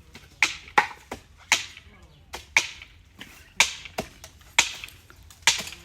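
Sharp blade strikes chopping old frond bases off a date palm trunk, about one chop a second, sometimes two in quick succession.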